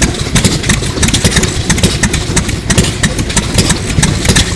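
A Sato 2 hp hot-bulb semi-diesel engine from about 1933 running, with a steady, even rhythm of sharp knocks.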